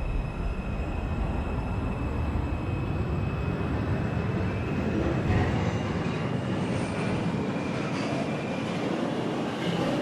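R142 subway train running between stations: steady wheel-and-track rumble, with a thin, steady electric-motor whine above it.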